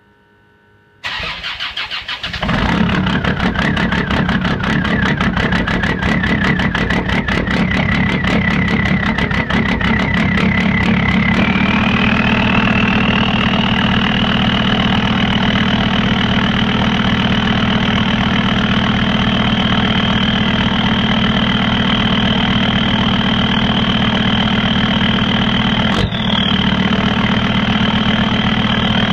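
Land Rover Discovery 2 Td5 five-cylinder turbodiesel cold-started in near-freezing air: the starter cranks for about a second and a half, the engine catches and idles with a rapid diesel clatter. About ten seconds after it catches, the idle note changes and a high whine rises and then holds steady; a single sharp click comes near the end.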